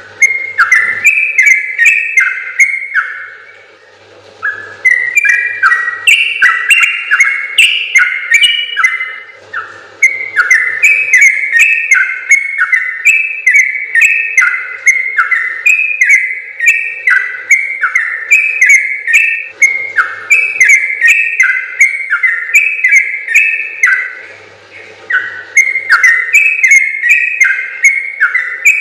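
Yellow-vented bulbul (trucukan) singing long, rapid runs of bubbling whistled notes, in several phrases broken by short pauses.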